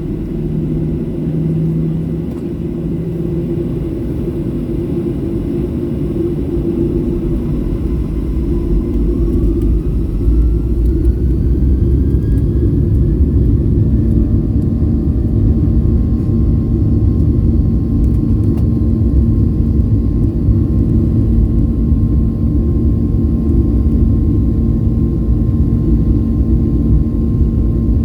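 Boeing 737 jet engines spooling up to takeoff thrust: a whine rises in pitch partway through as the engine noise grows louder. It then holds at a steady, loud level over a deep rumble.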